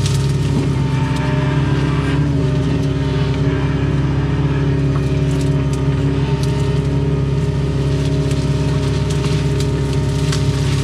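Doosan excavator's diesel engine running steadily under working load, heard from inside the cab, with scattered light clicks.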